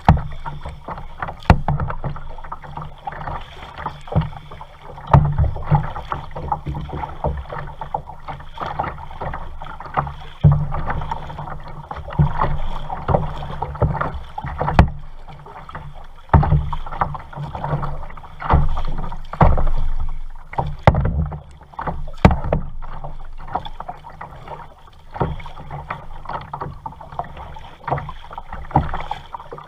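Kayak being paddled: paddle strokes splashing through the water, with repeated thumps and sharp knocks every second or two.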